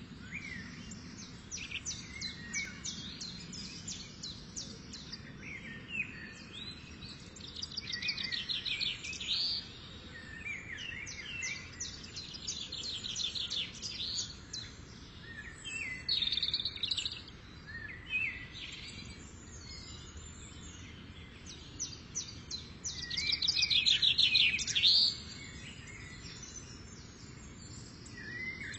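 Several birds calling and singing among the trees: short chirps and whistled glides, with bursts of fast trills that come and go, loudest about 23 to 25 seconds in. A low steady background rumble runs underneath.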